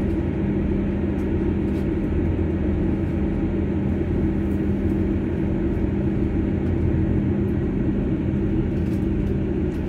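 Cabin noise of a South Western Railway diesel passenger train running at speed: a steady rumble of the wheels on the track and the underfloor engine, with a steady low hum and a few faint ticks.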